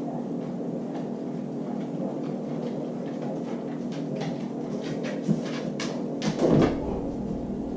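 Knocks and clicks at a refrigerator door as a dog works at it, with a heavier thump about six and a half seconds in, over a steady low hum.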